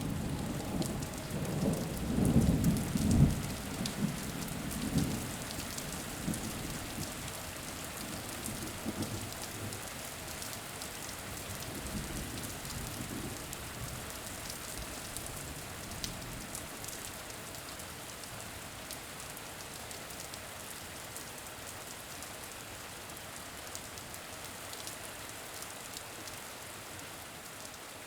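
Steady rain with thunder rumbling during the first few seconds and dying away; after that only the rain goes on, an even patter with scattered drop ticks.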